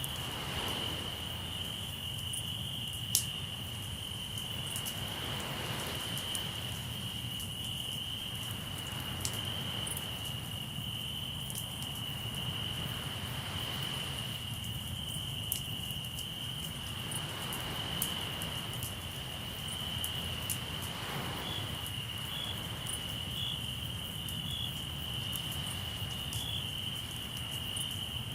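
Crickets trilling steadily in one continuous high note, over a campfire crackling with scattered sharp pops, the loudest about three seconds in. Waves wash up softly every few seconds beneath them.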